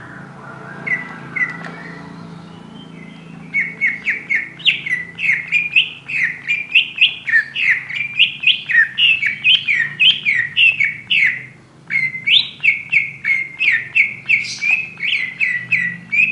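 Oriental magpie-robin (kacer) singing a fast run of short, sharp notes, about four a second. The song starts a few seconds in and breaks off briefly about two-thirds of the way through.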